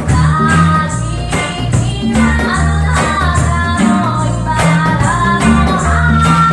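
Live reggae band playing, with a singer's voice over a steady bass line and an even beat.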